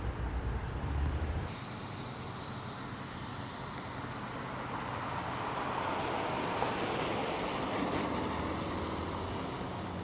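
Road traffic: a low rumble cuts off abruptly about one and a half seconds in, then a passing vehicle's noise swells and fades.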